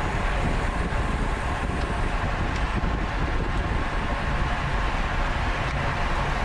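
Steady wind noise on the microphone of a camera riding on a racing bicycle at speed.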